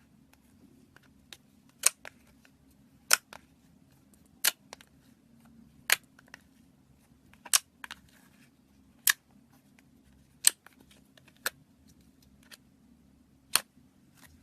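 Sharp, loud clicks or pops, about one every one and a half seconds, over a faint steady low hum.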